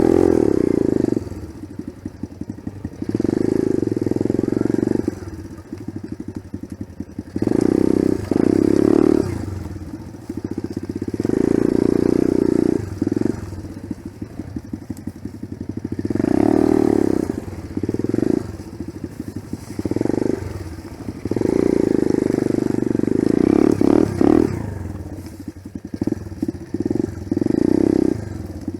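Small off-road motorcycle engine riding a trail, opened up in loud bursts of one to two seconds every few seconds and dropping back to a choppy low-rev chug in between.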